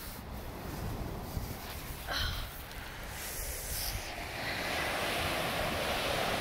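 Wind rumbling on the microphone, with surf washing on the beach that swells louder about four and a half seconds in.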